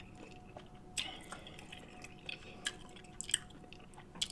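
Faint, close-miked chewing of soft seafood, with wet mouth sounds and a few short, soft clicks scattered through.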